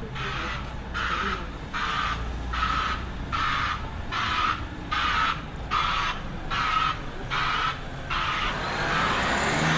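Vehicle reversing alarm sounding a steady on-off beep, about four beeps every three seconds, each beep hissy with a tone in it. A low traffic rumble runs underneath.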